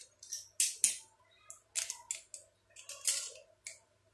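Plastic toy-truck parts clicking, scraping and rattling in a quick string of short, scratchy bursts, about eight in four seconds, over a faint steady hum.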